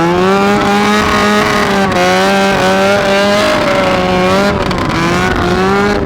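Go-kart's 400cc snowmobile engine running loud, its pitch rising and falling as the throttle is worked.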